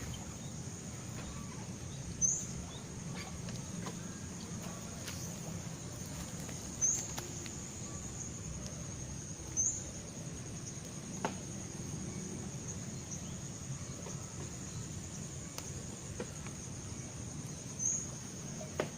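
Rice-field ambience: a steady, high-pitched drone of insects, with four short, high chirps rising over it and a low rumble underneath.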